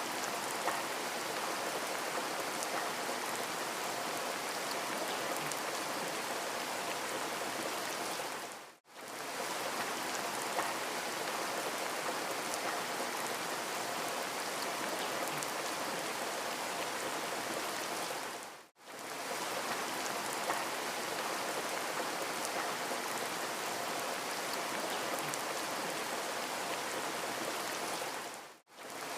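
Steady rain ambience: an even hiss of falling rain. It is a looped recording that briefly fades to silence and back in about every ten seconds.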